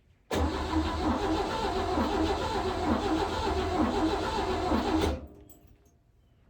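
1953 Chevy Bel Air's straight-six engine being cranked by the starter for about five seconds without catching, with a slow, even pulse of compression strokes; the cranking stops abruptly.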